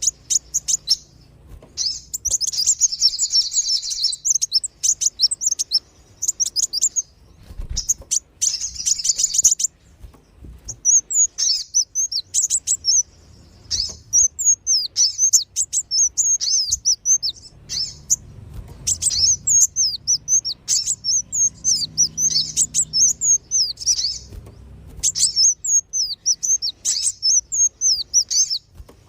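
Sunbirds (kolibri wulung and sogon) giving rapid, high-pitched chirping calls in bursts of a few seconds with brief pauses between, as played in a bird-lure recording.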